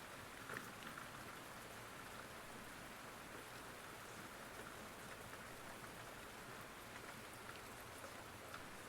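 Faint, steady rain, with scattered drops ticking.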